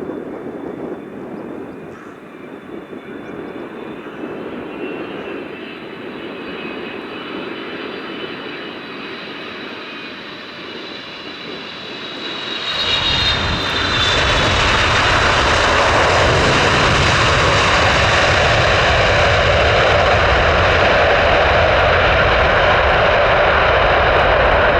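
Jet airliner engines running with a whining fan tone, then about halfway through a sudden rise to much louder, full thrust that holds steady.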